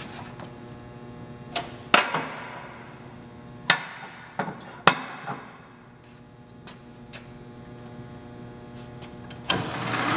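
South Bend metal lathe being shifted into direct drive: several sharp metallic clunks and clicks with a short ring from the gear and lever changes, over a steady hum. Near the end the spindle starts up and runs with a loud whir.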